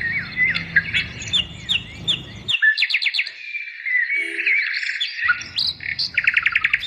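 A mixed chorus of birds in trees, chirping and whistling with many short rising and falling calls. Quick runs of rapid repeated notes come about three seconds in and again near the end.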